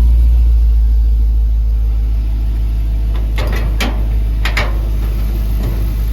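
A 5.3-litre LS V8 idling steadily through headers and Magnaflow mufflers, a deep, even rumble. A few sharp clicks come about halfway through.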